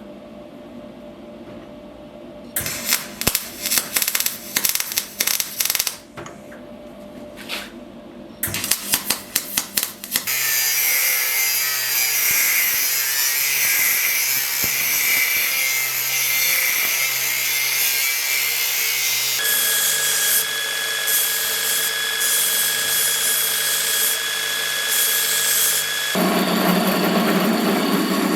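Metalworking tools on a knife blade: two spells of quick, repeated scraping strokes, then a power tool running steadily, its sound changing twice.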